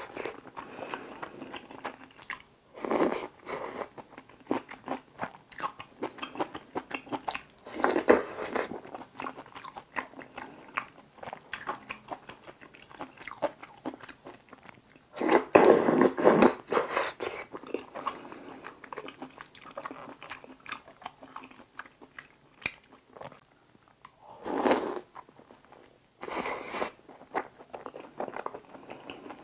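Close-miked eating sounds: steady wet chewing of tteokbokki rice cakes and cheesy pizza in sauce, with five louder bursts of biting and mouth noise spread through.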